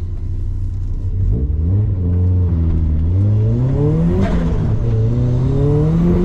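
Turbocharged Mazda MX-5's four-cylinder engine pulling away hard from the start of a sprint run, heard from inside the car. The engine note holds steady at first, then the revs climb, drop at a gear change about four seconds in, and climb again.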